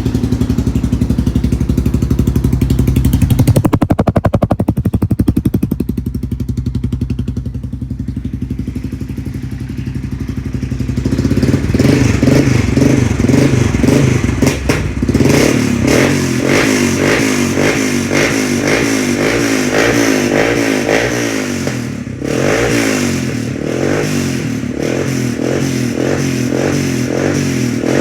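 1999 Yamaha Wolverine 350's single-cylinder four-stroke engine running through a DG exhaust with the baffles removed, warming up after a cold start. It idles steadily at first, then from about halfway on gets louder and its note wavers up and down over and over.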